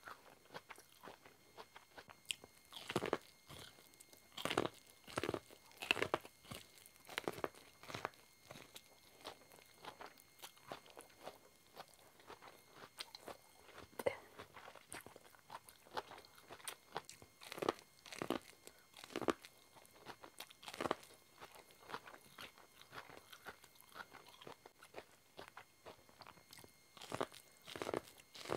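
Close-miked eating of corn on the cob: bites tearing kernels off the cob and crunchy chewing, in irregular bursts, with a firm bite near the end.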